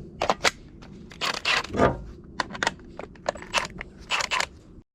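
Irregular crunching, scraping and knocking noises, a dozen or so sharp clicks and a few longer crunches over a low rumble.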